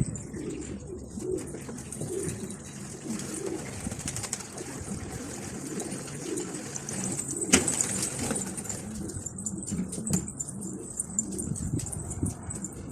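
Pigeons cooing, many soft low calls overlapping, with one sharp click a little past the middle.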